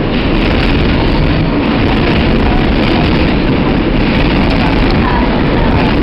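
New York City subway train running through the tunnel between stations, heard from inside the car: a loud, steady rumble and rush of wheels on the rails.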